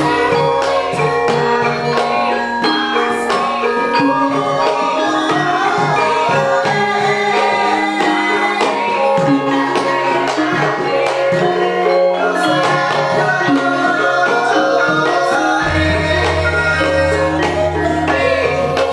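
A Banyumasan Javanese gamelan ensemble playing a gending, with bronze metallophones, kendang drumming and a singing voice. A deep gong tone sounds at the start and comes back about three-quarters of the way through.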